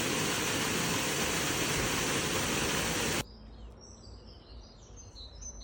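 Steady loud rushing noise, like running water or wind on the microphone, that cuts off abruptly about three seconds in. Faint birds chirping follow.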